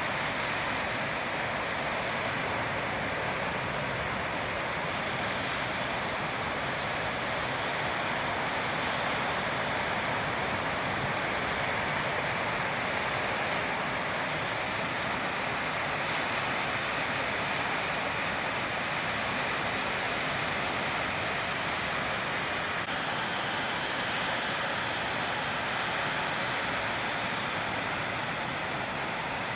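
Steady, even rushing noise of ocean surf, with no separate wave breaks standing out.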